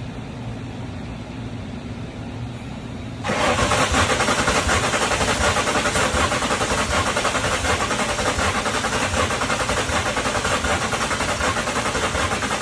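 The starter of a 1999 Mustang GT's 4.6-litre V8 cranking the engine over steadily for about nine seconds without it firing, starting abruptly about three seconds in after a low steady hum. The engine spins but won't catch; the owner later finds the crank sensor unplugged, which he takes to be the problem.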